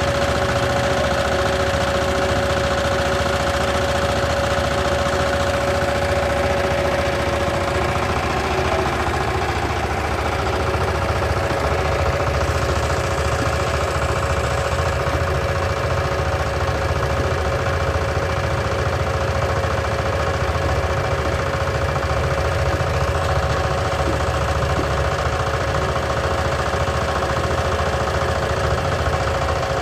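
Tractor diesel engine running steadily, with a constant tone sitting above the low rumble.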